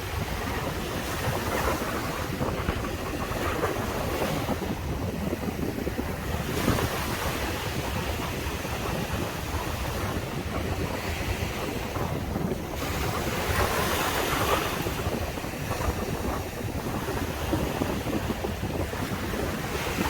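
Surf washing onto a sandy beach, with waves swelling and receding every few seconds, a stronger wash about two-thirds of the way in, and wind buffeting the microphone underneath.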